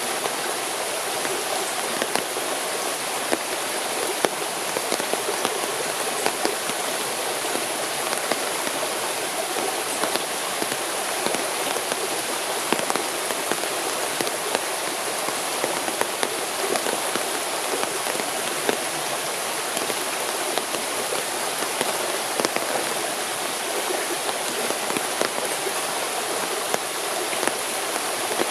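Steady rain: an even hiss of falling water with many scattered sharp drop ticks.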